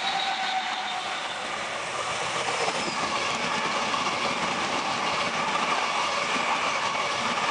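A four-car Oscar (H-set) electric multiple unit passing through the station, its wheels and running gear making a steady rolling noise with a faint steady whine.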